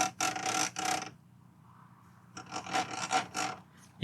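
PS4 cooling fan turning and scraping against its housing in two rasping bursts, one at the start and one past the middle. The fan is not sitting centred and its blades rub as it turns, the cause of the console's horrible noise.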